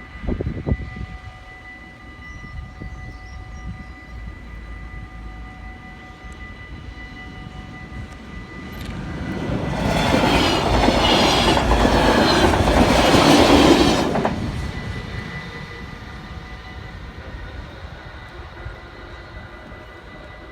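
NS DDZ double-decker electric train passing over a level crossing: a loud rush of wheels on rails builds from about nine seconds in, peaks, and falls away about fourteen seconds in. The crossing's warning bells ring steadily throughout.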